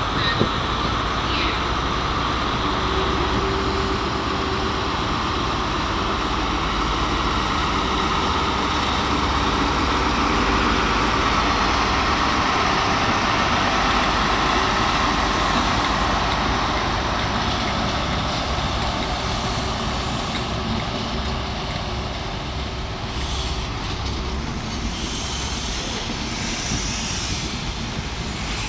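CrossCountry High Speed Train (InterCity 125) departing, its Class 43 diesel power cars running under power as the train gathers speed. It makes a steady, heavy engine noise that grows louder toward the middle and eases off near the end.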